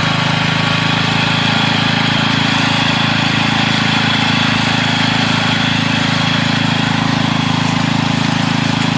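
Orchard weed mower with a wire-string cutting head, its small engine running steadily at a constant speed.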